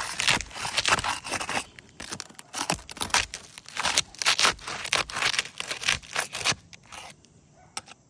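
Repeated scraping and tearing as a knife blade is worked up under asphalt roof shingles to break their sealant strip and reach the nails, in quick irregular strokes. It stops about six and a half seconds in.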